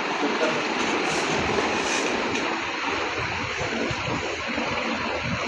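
Newly installed ceiling fan running, switched on at its dimmer regulator: a steady rushing noise, with a low fluttering rumble growing in from about a second and a half in.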